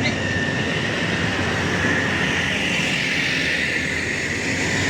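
Heavy truck running: a low rumble with a steady high-pitched whine over it that swells a little midway.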